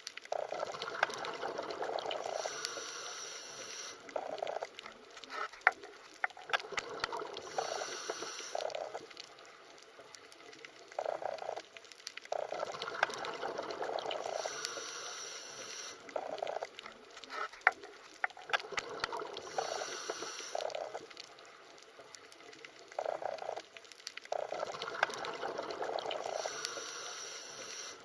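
Underwater ambience: muffled gushing and bubbling water with scattered small clicks, swelling and easing off in a cycle that repeats about every twelve seconds.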